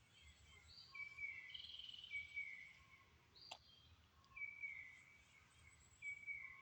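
A bird calling faintly outdoors, a series of short notes that slide down in pitch, repeated about once a second with a pause in the middle. A single sharp click about halfway through.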